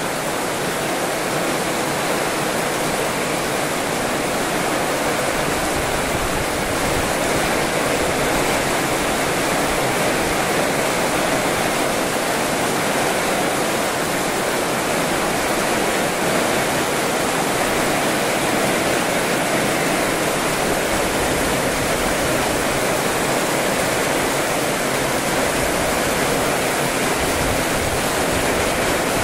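Heavy rain falling steadily on a garden, with rainwater pouring off the roof edge and splashing into the puddles below: a loud, continuous rush.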